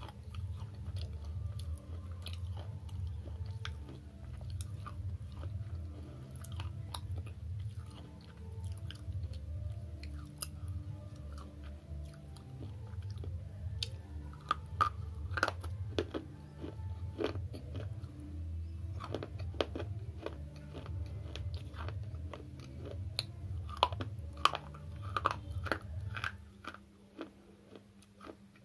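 Slate pencil pieces being bitten and chewed close to the microphone: dry crunching with sharp cracks, which get louder and sharper past the middle. The chewing stops shortly before the end.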